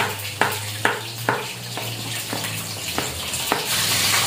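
Shallots and garlic sizzling in hot oil in a steel wok, while a metal utensil stirs and taps against the wok about every half second. The sizzle grows louder near the end.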